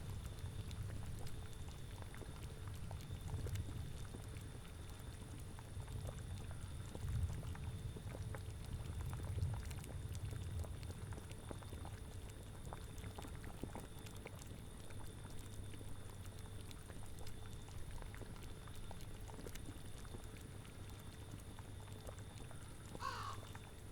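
A cauldron bubbling at a boil, with scattered small pops over a low rumble that swells and eases. A brief high animal call comes near the end.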